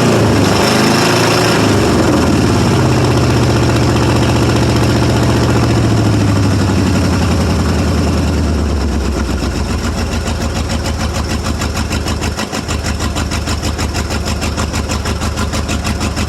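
1995 Ford F150's 5.8-litre (351) V8 running roughly: the revs fall over the first couple of seconds and it settles into a lumpy idle with an uneven pulsing beat. It is misfiring, running as if on only four cylinders, which the owner puts down to a blown head gasket or cracked head.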